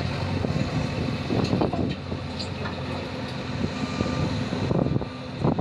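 JCB 3DX backhoe loader's diesel engine running steadily while at work, with a few knocks, one loud one near the end.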